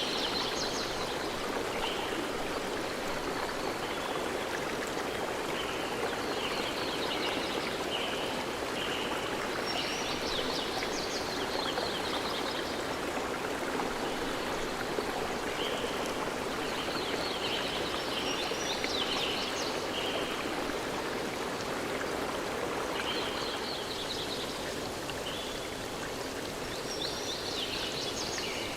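A forest stream running steadily, with a bird singing short phrases of quick high chirps that recur every several seconds.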